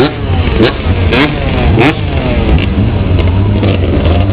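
Motocross dirt bike engines revving in repeated short throttle blips, each a quick rise in pitch, over a steady low engine drone.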